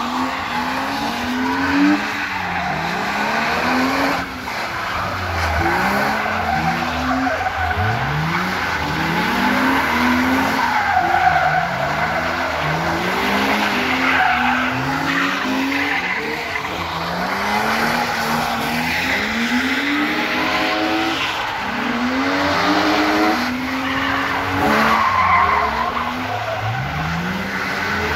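BMW E36 Compact with an M52 straight-six being drifted: the engine revs climb and drop over and over, every second or two, while the rear tyres spin and slide on wet tarmac.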